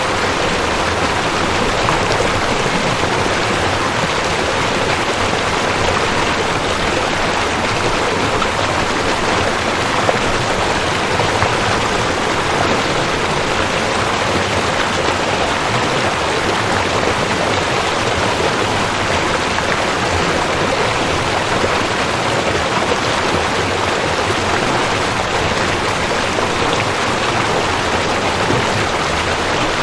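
Rushing creek water, a steady, even rush.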